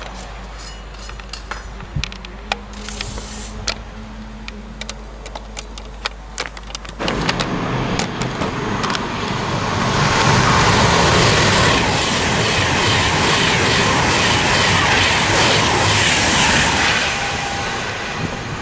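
A Class 390 Pendolino electric express train passing through the station at high speed: a loud, steady rush of wheel-on-rail and air noise that builds over several seconds and eases off near the end. Before it, a quieter stretch holds a low steady hum and scattered light clicks.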